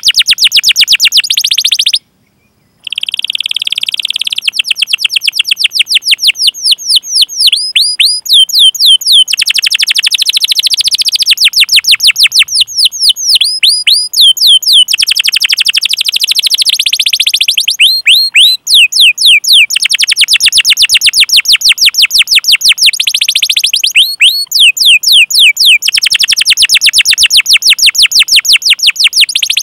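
Domestic canary singing long, rapid runs of sharp, downward-sweeping 'cuit' chip notes, with short breaks between runs and one brief silence a couple of seconds in.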